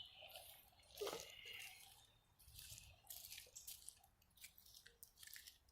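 Near silence with faint barefoot footsteps on wet, rocky ground: one soft squish about a second in, then scattered small crackles.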